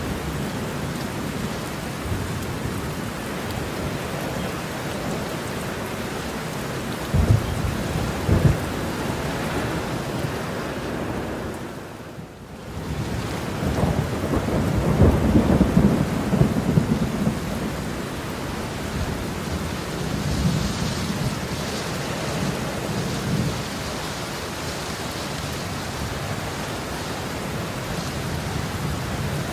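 Heavy rainstorm: a steady hiss of rain with rolling thunder, two sharp cracks about seven and eight and a half seconds in. The sound drops away briefly about twelve seconds in, then a long, louder rumble of thunder follows.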